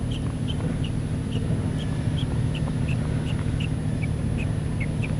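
A bird calling in a steady series of short, high chirps, about three a second, each dipping slightly in pitch, over a steady low hum.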